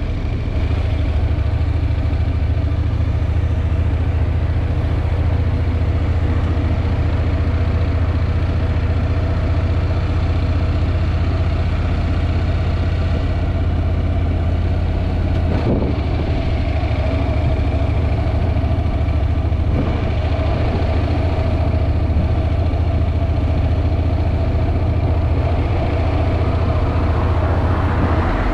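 Wind buffeting the GoPro's microphone on a moving Honda NC750X motorcycle, a steady loud rumble, with the bike's parallel-twin engine running underneath at a steady pace.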